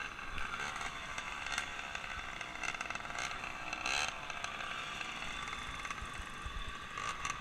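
A motor vehicle running steadily, with a whirring whine.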